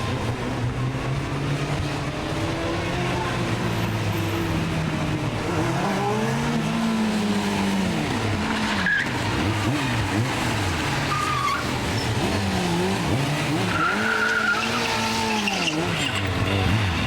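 Motorcycle engine revving hard, its pitch rising and falling over and over in the second half, with short bursts of tyre squeal as the rear wheel slides.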